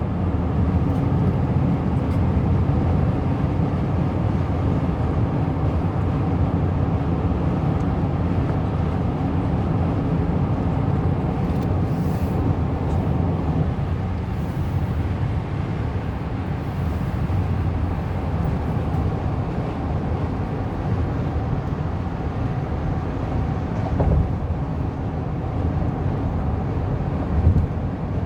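Steady road and engine rumble heard from inside a car driving on a highway, with a couple of brief knocks near the end.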